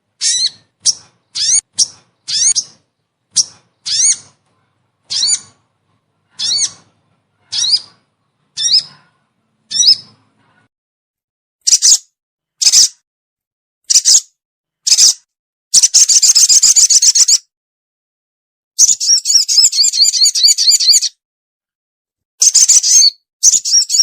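Sogon (sogo ontong) bird calling, played as a lure call for catching the species. A series of short, high, rising notes comes about once a second, then after a pause a few sharp bursts and three long, fast rattling trills.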